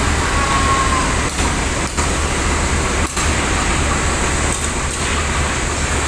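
Steady low rumble and hiss of a passenger train standing at the platform, with no clear change or event.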